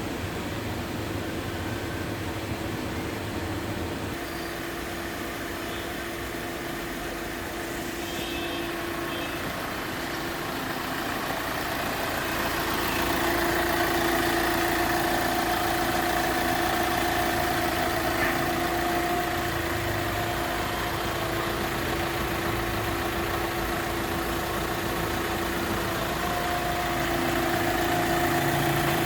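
Hyundai i20 CRDi diesel engine idling steadily, with a steady hum that grows louder about twelve seconds in.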